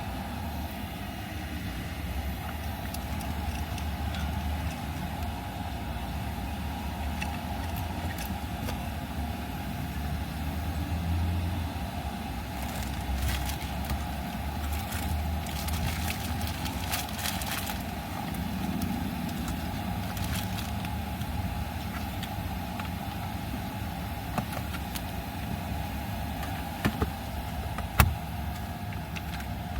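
Car engine running steadily, heard from inside the cabin, with a low hum and a sharp click near the end.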